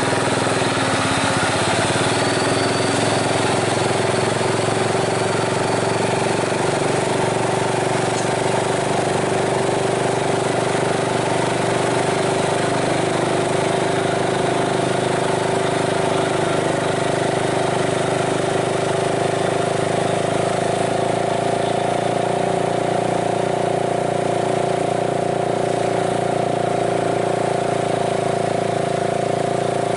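Diesel engine of a heavily loaded Nissan truck running steadily under load on a steep climb, its pitch rising slightly in the second half.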